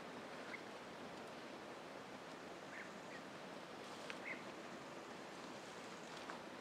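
Quiet woodland ambience: a steady soft hiss with a few short, faint bird chirps scattered through it.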